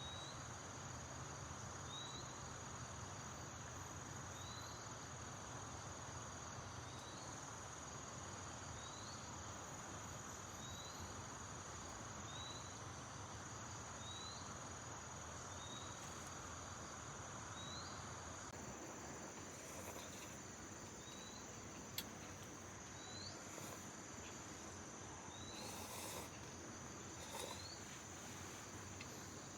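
Faint, steady high-pitched trilling of insects, with a short rising chirp repeating about once a second or so. A single sharp click about twenty-two seconds in.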